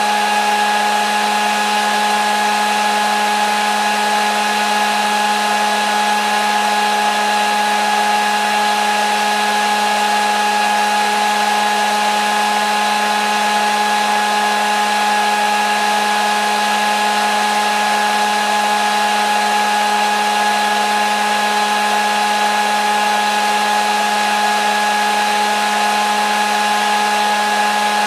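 Hair dryer running steadily: a constant motor whir and airflow hiss with a fixed hum, unchanging throughout, used as white noise for a baby's sleep.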